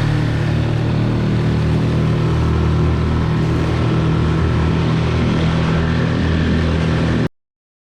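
Tohatsu 6 hp gas outboard running steadily, with a hiss over it; the sound cuts off abruptly near the end.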